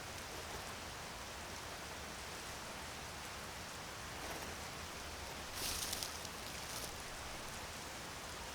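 Steady soft hiss of outdoor ambience, with a brief rustle a little past halfway.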